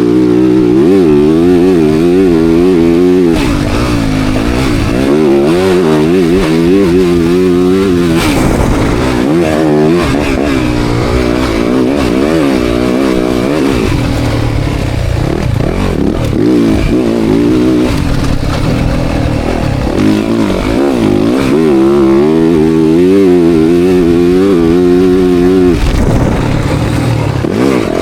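Motocross bike engine being ridden hard, loud throughout, its pitch rising and falling again and again as the throttle opens and closes.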